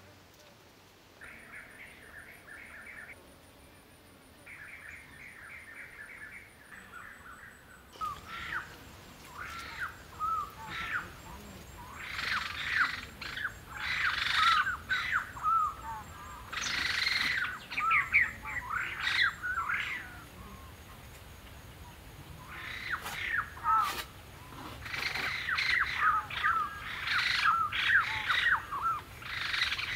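Wild birds calling: a couple of short rapid chirping trills early on, then from about eight seconds in, bursts of loud chattering calls that come and go in clusters.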